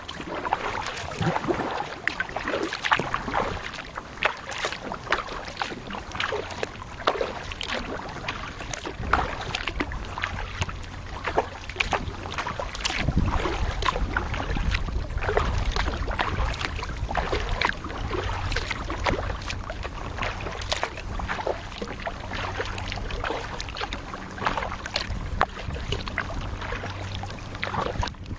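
Kayak paddle strokes in the water: irregular splashes, drips and light knocks. A low rumble joins from about six seconds in.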